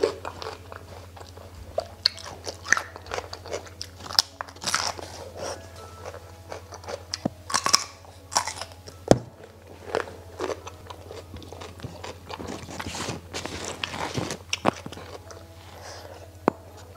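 Close-up eating sounds: repeated crunchy bites and chewing of fresh cucumber dipped in chili sambal, with wet mouth sounds between the crunches. A steady low hum runs underneath.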